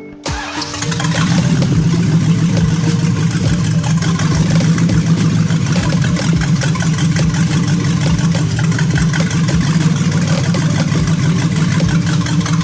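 Car engine running steadily. It builds up over the first second or so, then holds at an even level.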